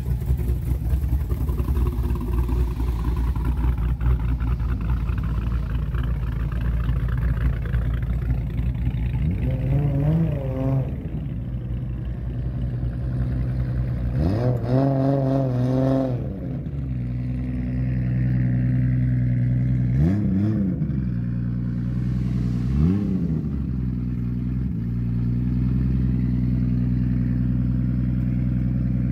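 A Dodge Challenger SRT Demon's supercharged V8 idles with a pulsing, lumpy rumble. Then an R32 Nissan Skyline's engine idles and is blipped several times, each rev rising and falling quickly, with the biggest pair of revs about halfway through.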